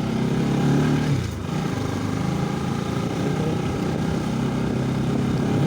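Motorcycle engine running while the bike is ridden, briefly louder just before a second in, then easing and running steadily.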